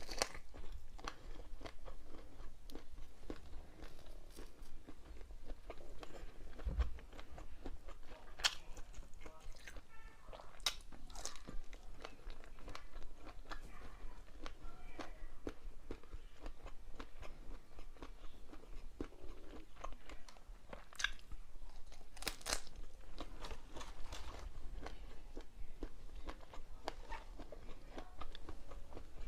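Close-miked eating: irregular crisp crunches and bites with wet chewing in between, a person eating mukbang-style.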